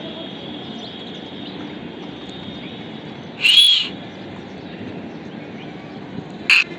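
Budgerigars calling: two loud, short, high calls, an arched one about halfway through and a shorter one near the end, over faint chirping chatter.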